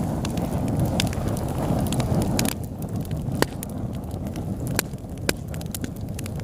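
Wood fire burning in a fireplace: a steady low rushing noise with sharp crackles and pops of burning wood every second or so. The low rush drops a little about halfway through.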